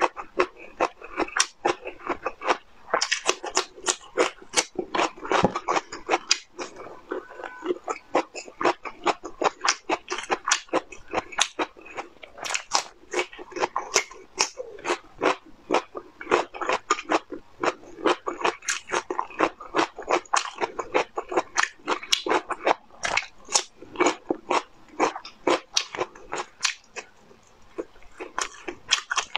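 Close-miked crunchy biting and chewing of raw cucumber, with crisp crunches coming a few times a second.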